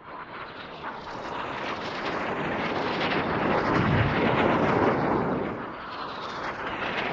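Jet roar from Red Arrows BAE Hawk trainers passing overhead during their display, building to its loudest about four to five seconds in before easing slightly and swelling again.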